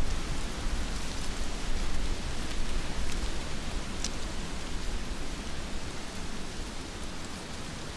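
Heavy rain falling steadily, an even hiss of many drops, with a low rumble underneath that eases off toward the end. A single sharp drip-like tick sounds about four seconds in.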